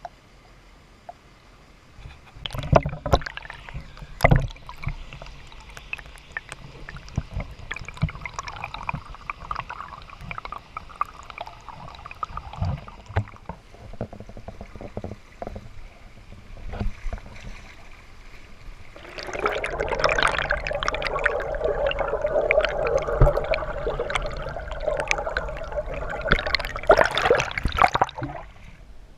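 Creek water splashing and gurgling close to the camera, much louder for the last ten seconds before dropping away just before the end. A few sharp knocks come in the first few seconds.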